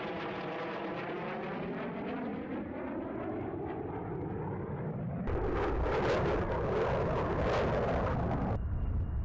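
Jet aircraft flying past, its noise sweeping in pitch as it goes by. About five seconds in, an abrupt change to louder jet engine noise for about three seconds, which cuts off suddenly.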